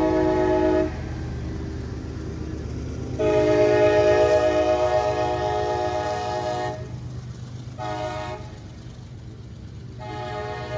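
Freight locomotive air horn sounding a chord in blasts: the tail of one long blast, a long blast, a short one, then another long one beginning, the long-long-short-long grade crossing signal. A steady low rumble of the passing train runs underneath.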